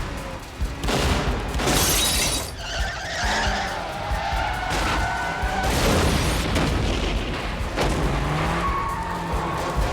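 Car chase sound effects: engines and skidding tyres, with a crash and shattering glass about two seconds in, under a music score.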